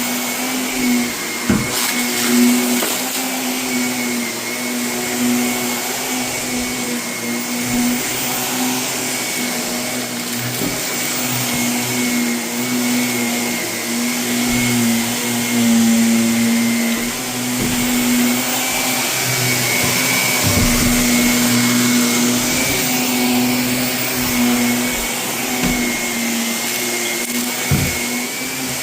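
Vacuum cleaner running steadily over carpet, with a few sharp clicks and crackles as renovation debris is sucked up.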